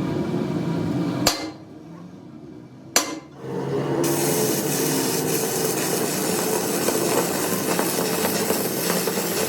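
Metalworking noise: a steady mechanical running sound broken by two sharp metal knocks about a second and a half apart. After the second knock it drops off briefly, then returns with a harsher, hissing edge.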